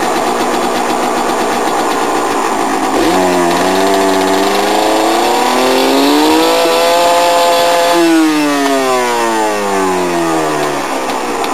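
Yamaha DT 230 Lanza's two-stroke single-cylinder engine running steadily, then revving up about three seconds in, its note climbing for about five seconds with a short break partway, and then falling away as the throttle comes off.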